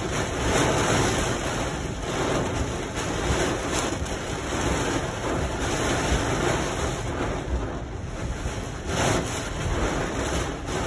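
Heavy rain on a car's roof and windshield, heard from inside the cabin: a dense, steady rush that swells and eases.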